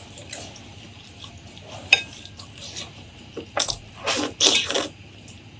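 Close-miked eating sounds: scattered wet mouth clicks while chewing, then a cluster of louder wet mouth noises about three and a half seconds in.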